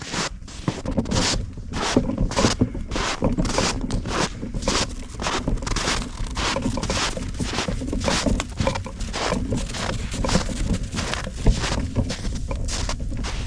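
Hand saw cutting firewood, a steady run of rasping back-and-forth strokes at about two to three a second.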